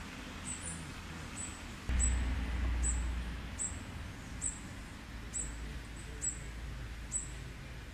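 A small bird giving short, high-pitched chip notes, repeated evenly about once every second. A low rumble of wind or handling noise on the microphone starts about two seconds in.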